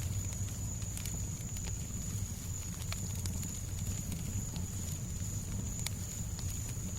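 Fireplace fire crackling, with scattered sharp pops and ticks over a steady low rumble of background noise and a thin steady high tone.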